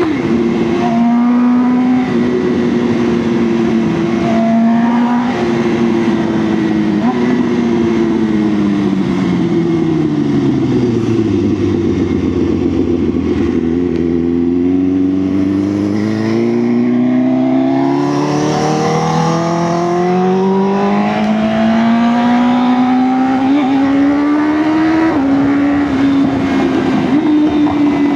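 BMW S1000R's 999 cc inline-four motorcycle engine on the move. The revs hold steady, then fall away smoothly for several seconds as the throttle closes, and climb back slowly before levelling off again near the end.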